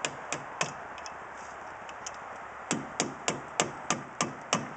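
Repeated hammer blows, about three a second, going softer and sparser for a couple of seconds in the middle before coming back strong.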